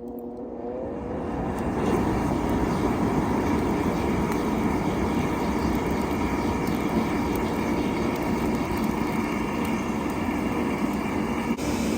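A steady mechanical roar that builds over the first two seconds and then holds level, with a faint steady whine in it.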